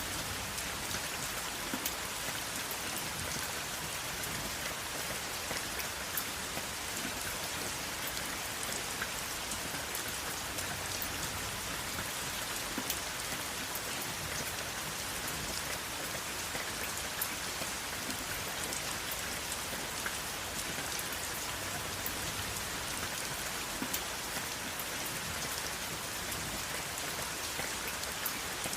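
Steady rain falling, an even hiss with many small drop ticks scattered through it, and no thunder.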